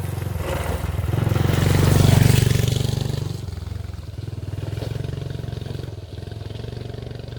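An engine running with a fast, even firing beat; it revs up about a second in, peaks around two seconds, then drops back to a steadier run.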